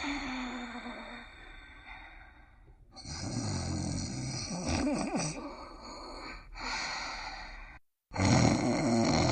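Cartoon character snoring: a run of long, drawn-out snores, broken by a sudden brief dead silence near the end where clips are cut together.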